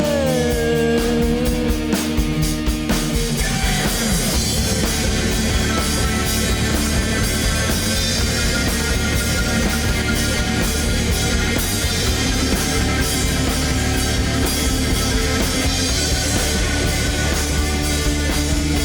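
Rock band playing an instrumental passage between sung lines, with distorted electric guitar and drum kit. A held note slides down in the first second, then the full band plays on.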